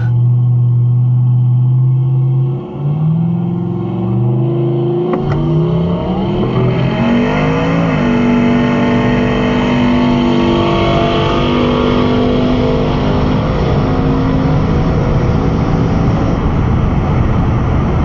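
Car accelerating hard down a drag strip on a quarter-mile pass: a pitched engine note climbs in steps between about three and eight seconds in, then holds fairly steady.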